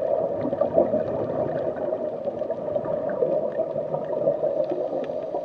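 Steady rush of fast-flowing water, as at a river waterfall, with many small ticks of splashing.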